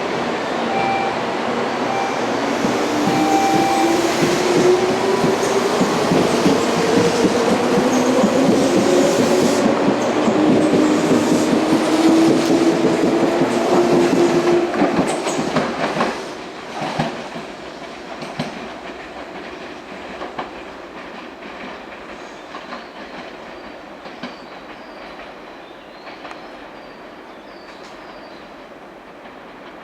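Tobu 200-series electric train pulling away, its traction motors whining and rising steadily in pitch as it accelerates, after a few short beeps at the start. From about halfway the sound fades as the train recedes, with wheels clicking over rail joints.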